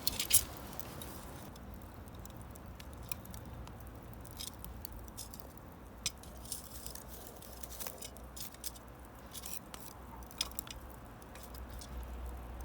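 Irregular small crackles and clicks at an even background level, with one louder click just after the start.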